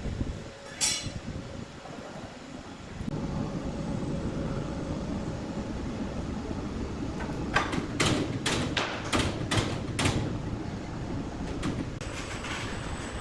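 Large sawmill machinery running with a steady low noise that gets louder about three seconds in, broken near the middle by a quick run of about eight sharp knocks.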